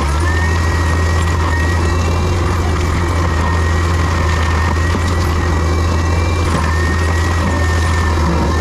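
Heavy diesel land-clearing machine running steadily under load: a deep, constant engine drone with a thin high whine over it that shifts slightly in pitch.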